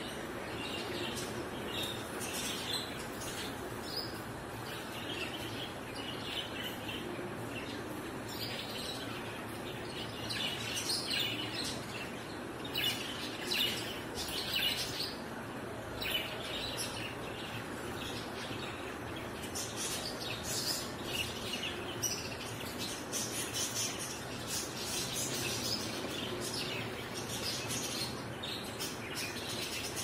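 Small birds chirping: many short, high chirps, coming thickest around the middle and through the last third, over a steady background noise.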